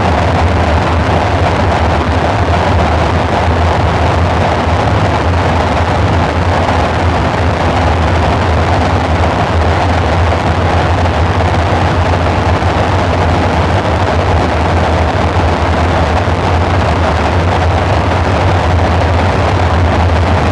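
Dark ambient synthesizer drone: a steady deep hum under a rushing, hiss-like noise layer, unchanging throughout.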